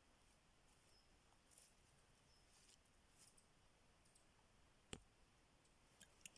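Near silence with a faint hiss, broken by a sharp click about five seconds in and two smaller clicks near the end.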